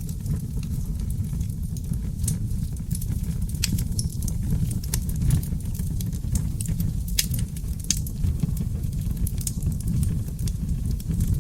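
Wood fire in a fireplace crackling and popping: many sharp irregular snaps over a steady low rumble of the burning logs.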